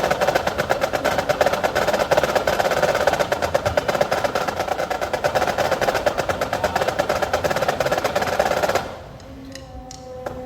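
Youth wind band playing loudly: a rapid drum roll under a held chord, cutting off suddenly about nine seconds in.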